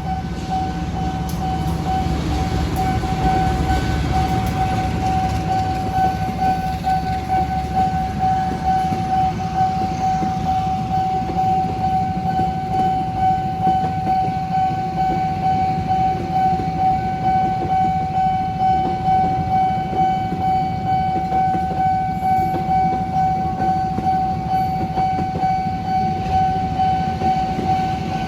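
Nippon Signal electronic level-crossing alarm sounding a steady ringing tone that pulses about one and a half times a second, while a train rumbles past, loudest in the first few seconds.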